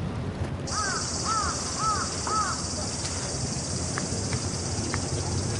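Rainforest ambience: a bird gives four quick, harsh, caw-like calls in a row, over a steady high insect buzz that starts under a second in and a low rumble.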